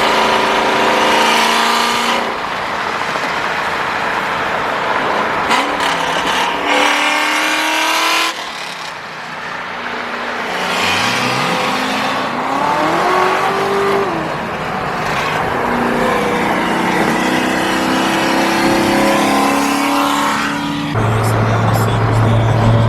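Cammed 1998 Ford Mustang GT 4.6-litre V8 with a stage 2 Comp cam, running under way with road noise. The engine note rises and falls, with revs climbing around the middle and again near the end.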